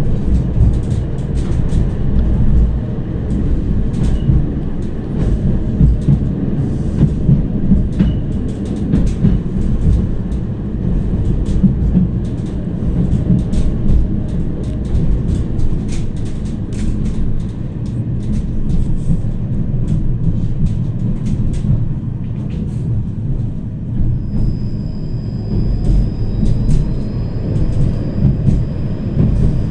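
Tram running along its rails, heard from inside the car: a steady low rumble with scattered clicks. A thin high whine joins about 24 seconds in.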